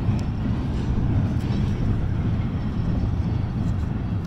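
Steady low rumble of a freight train's tank cars rolling slowly across a steel truss bridge.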